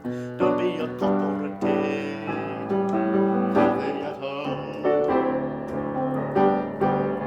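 Piano playing the closing bars of a song's accompaniment: a run of struck chords, each note decaying.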